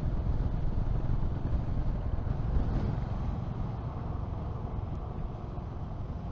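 Wind rushing over the microphone and low road rumble from a motorcycle on the move, gradually getting quieter.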